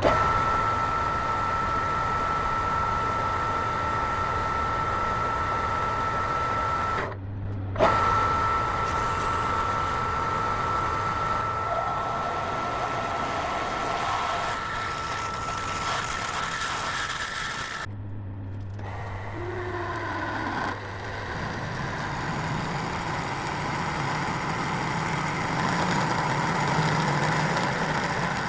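A motor-driven workshop machine running steadily with a high whine and a low hum, cut off briefly twice.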